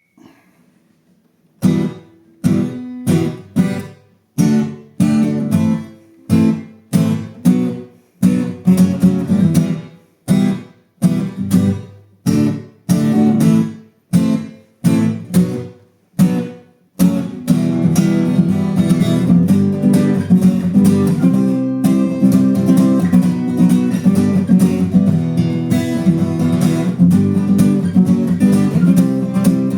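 Acoustic guitar strumming. Separate chords about two-thirds of a second apart, each cut short, give way a little past halfway to steady, continuous strumming.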